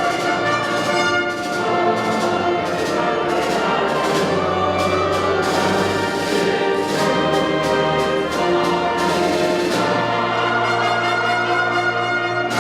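Orchestra playing classical-style music with the brass section prominent, trumpets and trombones holding chords that change every second or so over a low bass line.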